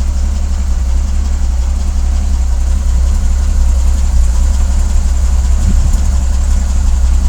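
Military radar truck's engine idling with a steady low rumble.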